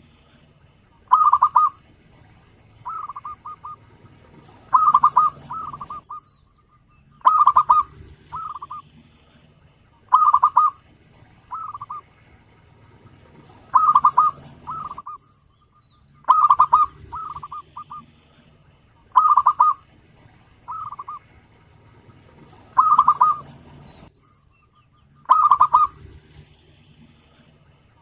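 Zebra dove (perkutut) cooing: a phrase of quick, clipped notes, repeated about every two and a half to three seconds.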